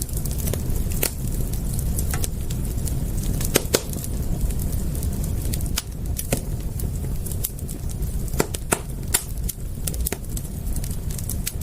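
Wood fire crackling: irregular sharp pops and snaps over a steady low rumble, with a quick pair of louder pops about three and a half seconds in.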